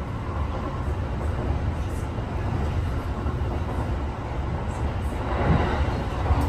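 Kintetsu 8A series electric commuter train heard from inside the passenger car while running: a steady low rumble of the wheels and running gear on the rails, with faint scattered clicks. It grows a little louder and brighter near the end.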